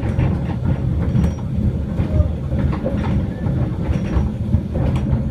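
Small locomotive running slowly along the track: a steady low rumble with irregular clicks and knocks from the wheels on the rails.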